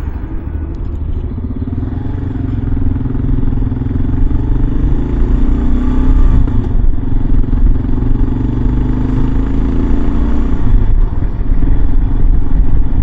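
Kawasaki KLR 650's single-cylinder engine running under way, over a low rumble of wind and road. The engine note builds over the first few seconds, dips briefly around the middle, and shifts again near the end.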